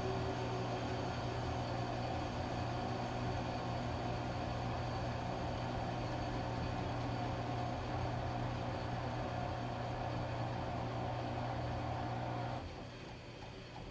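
Washing machine running with a steady motor hum. The hum cuts out near the end, leaving a quieter background.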